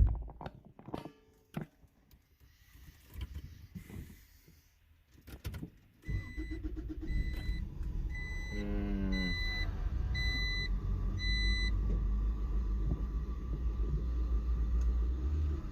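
Clicks and knocks, then the Acura Integra's engine is started from cold: it cranks and catches about six seconds in, with a warning chime beeping about once every two-thirds of a second for several seconds, and then settles into a steady low idle. The idle is still rough, which the owner takes for a misfire, with unburnt fuel smelled when it happens.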